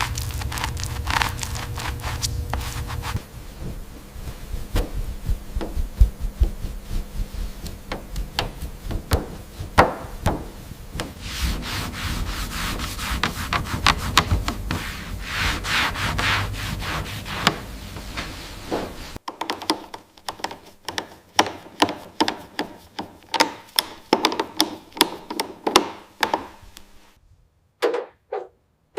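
Hand work on car parts in several cuts: rubbing and scraping with scattered knocks, then a run of regular back-and-forth strokes, about two a second, that fade out near the end.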